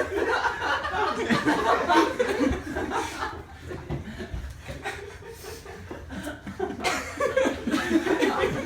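Several people laughing and chuckling. The laughter eases off before halfway through and picks up again near the end.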